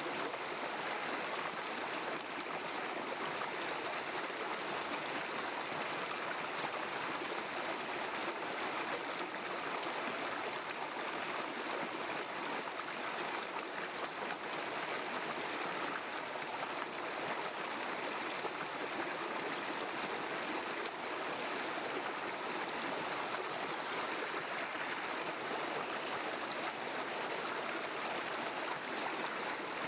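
River stream flowing and babbling, a steady rush of water with no change or break.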